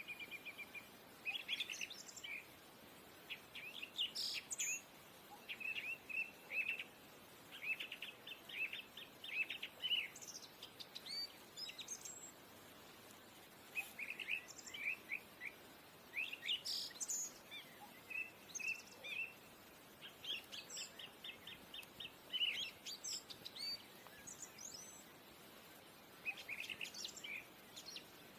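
A songbird singing: phrases of quick, high chirps and short trills, each a second or two long, repeated every few seconds with brief pauses between.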